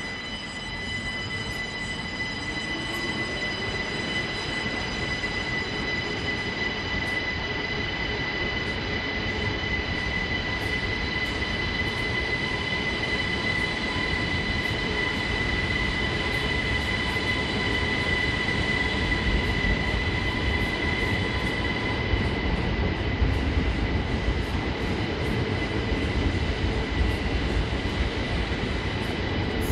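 A Belgian NMBS Desiro electric multiple-unit train moving along the platform. A steady high whine of several tones sits over a rumble of wheels and rail, and the sound grows gradually louder.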